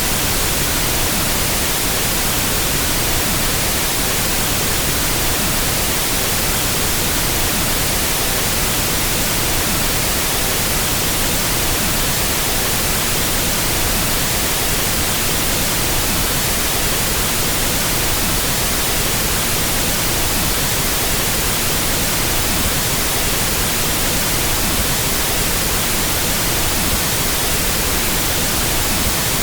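Steady pink noise test signal for equalizing sound systems: an even, unchanging hiss across all pitches.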